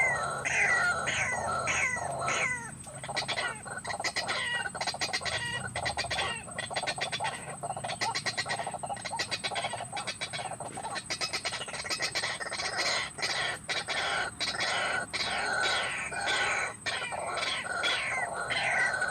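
White-breasted waterhens calling: repeated harsh, falling notes a few per second, breaking in the middle into fast rattling runs, over a steady high whine.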